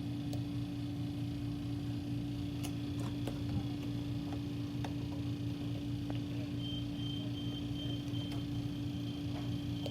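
Steady electrical hum of running shop equipment, with a few faint clicks of a hex key turning the set screws in a speed-control knob. A faint, high, evenly pulsing beep comes in about six and a half seconds in.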